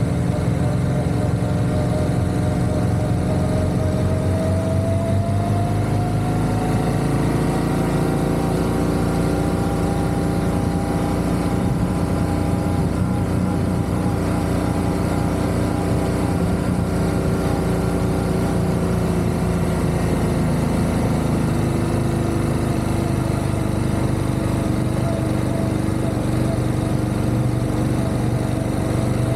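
Motorcycle engine running steadily while riding. Its pitch rises as it picks up speed about five seconds in, holds, then eases down a little past twenty seconds.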